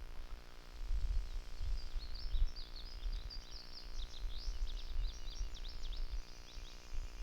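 A songbird chirping in a quick run of short, high, falling notes, from about two seconds in until near the end, over a low uneven rumble.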